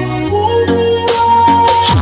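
Loud electronic dance music played through a large carnival sound-system rig: held deep bass notes under a sustained synth melody, with a falling sweep near the end.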